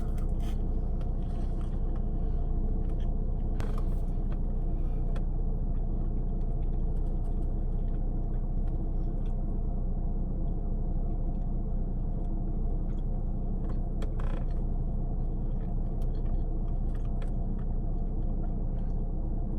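Steady low rumble of an idling car heard from inside the cabin, with a few faint clicks and eating noises.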